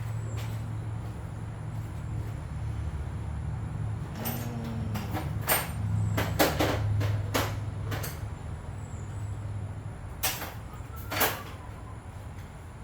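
Scattered metallic clicks and knocks from tools and hands working on a small generator engine with its valve cover off, while it is being turned toward top dead center. A steady low hum runs underneath.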